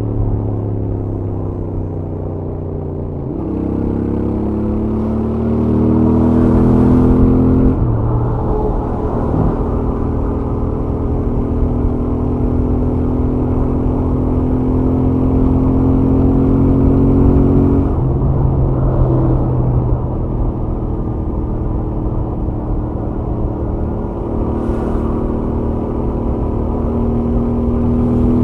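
Stock Royal Enfield Interceptor 650 parallel-twin engine and exhaust on a highway run, heard from the rider's helmet. The engine note falls as the throttle is eased, jumps up about three seconds in and climbs under acceleration, then drops a little with a gear change and holds steady at cruise. It drops again near eighteen seconds and climbs slowly, over a steady rush of wind and road noise.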